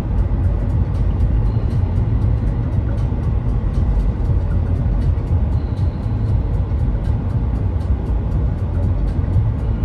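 Steady road noise inside a moving car's cabin: a low, even rumble of engine and tyres at cruising speed.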